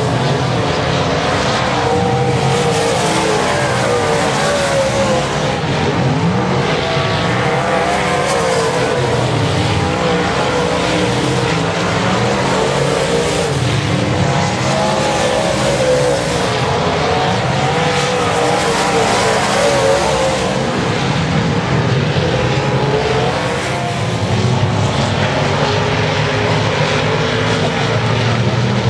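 Several dirt-track race car engines running hard, overlapping. The pitch and loudness rise and fall every few seconds as the cars come by and go away.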